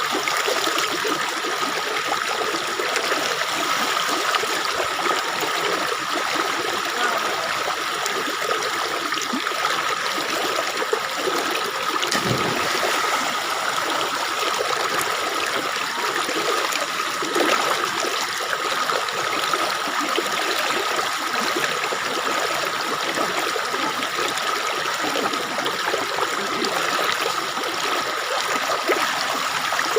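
Stream water flowing and trickling steadily, with a steady high-pitched tone running through it.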